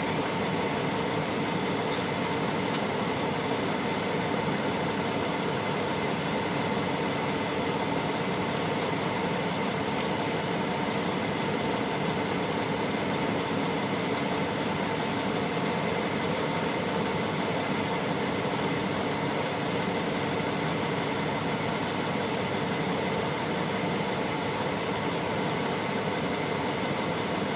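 Steady hum of an air conditioner running, with one short click about two seconds in.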